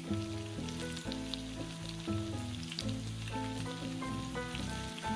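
Stuffed corn-tortilla tacos frying in hot oil in a skillet, sizzling with a steady crackle of small pops, under background music.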